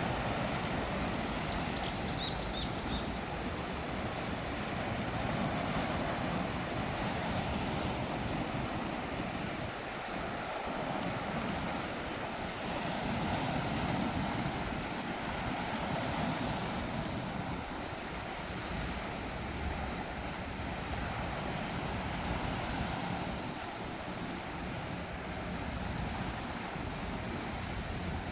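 Strong wind buffeting the microphone over the rush of sea waves, a steady noise that swells and eases every few seconds.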